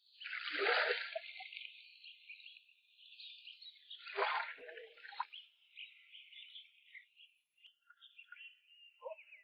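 Faint outdoor ambience with bird chirps, broken by two brief louder noises, about half a second in and about four seconds in.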